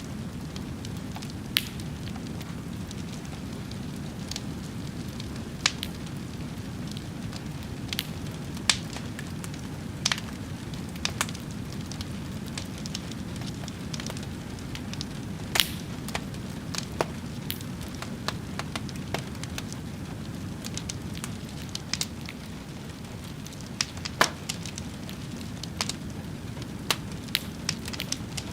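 Fire crackling: a steady low rush with sharp, irregular pops and snaps scattered throughout, a few of them louder than the rest.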